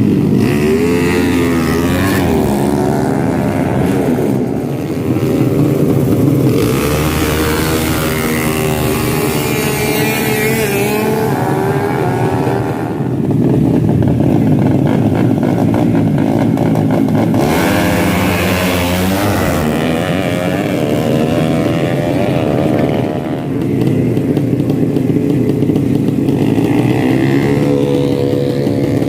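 Drag-racing motorcycle engines revving hard, their pitch climbing and dropping again and again, with louder passes about seven and eighteen seconds in.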